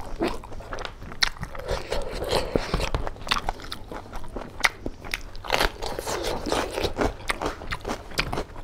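A man chewing and biting a mouthful of rice and pork curry, with irregular crunches and many short clicks.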